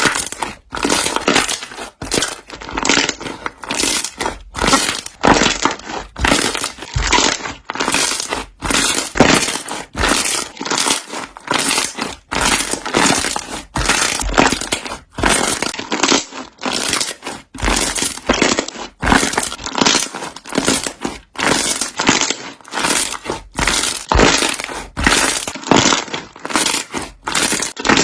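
Slime being squeezed and pressed so that trapped air bubbles pop, giving a close, continuous run of crackling pops in clusters about a second apart.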